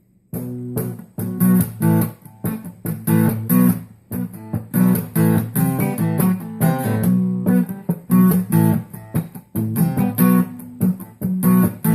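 Acoustic guitar strummed in a steady rhythm, playing the instrumental intro of a country song.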